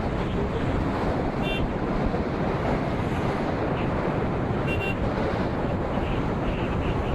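Steady wind rush on the microphone with road and engine noise underneath, as from a motorcycle being ridden. Two brief, faint high beeps come about a second and a half in and again near five seconds.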